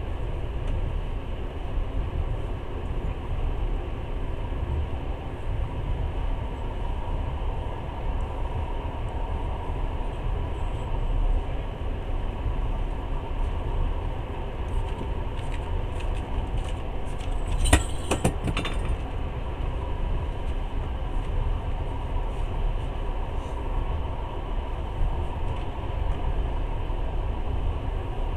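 Passenger train running, a steady rumble of wheels on the rails heard from inside the carriage. About two-thirds of the way through there is a short cluster of sharp clicks.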